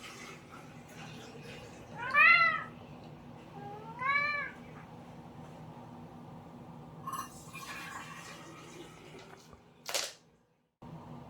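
A domestic cat meowing twice, about two seconds apart, each call rising and then falling in pitch, the first louder. A brief sharp noise comes near the end.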